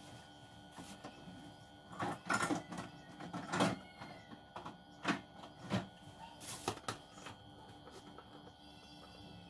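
A run of short, irregular rustles and knocks from handling things in a kitchen, loudest about three and a half seconds in, over a steady low hum.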